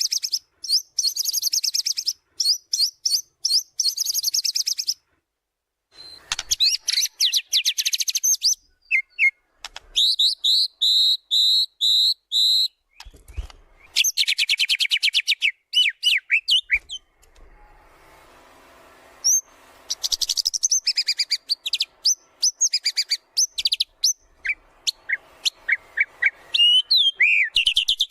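White-rumped shama (murai batu) in full song, running through its varied repertoire: fast rattling trills, a run of repeated rising whistled notes, and sharp whistles, with a brief pause about five seconds in.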